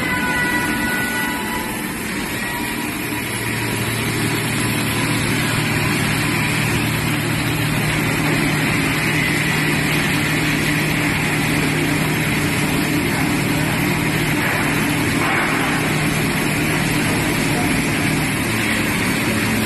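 Industrial pressure sanding machine running steadily, a broad even noise over a low hum; the hum grows stronger about three seconds in.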